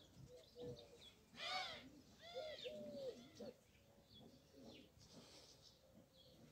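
Faint bird calls: a few short arching calls clustered between about one and a half and three and a half seconds in, then only faint traces.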